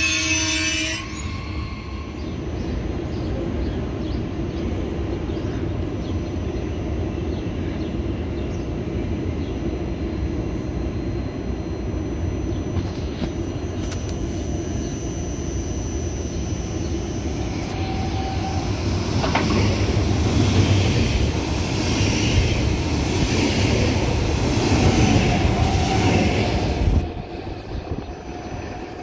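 DB ICE high-speed train rolling slowly along the platform: a steady rumble of wheels and running gear, growing louder in the second half with a faint wheel squeal and a single clank, then dropping away shortly before the end.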